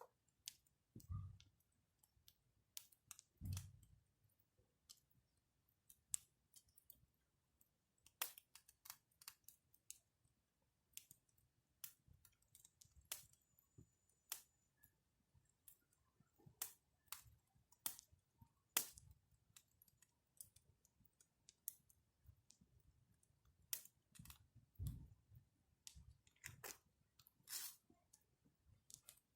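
Wood fire crackling: sparse, irregular pops and snaps of burning wood, with a few soft low thumps.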